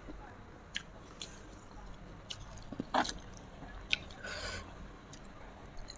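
A person chewing food close to the microphone: soft, scattered wet mouth clicks and small bites at an uneven pace, with a short louder patch about four and a half seconds in.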